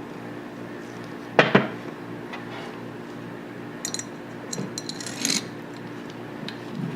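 Steel parts of a Tokarev TT-33 pistol being reassembled by hand: two sharp metal clicks about a second and a half in, then lighter metallic clinks and taps.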